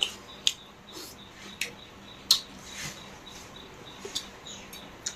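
A person chewing and lip-smacking while eating rice and fish curry by hand, heard close-up: an irregular string of short wet clicks and smacks, the loudest a little over two seconds in.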